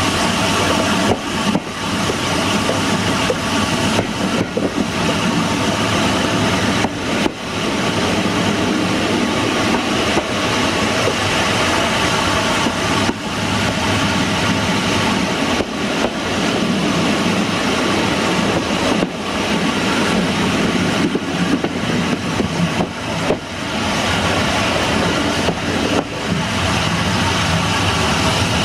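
Heritage train running along the track, heard from the rear cab: a steady rumble and rattle of wheels and carriage on the rails.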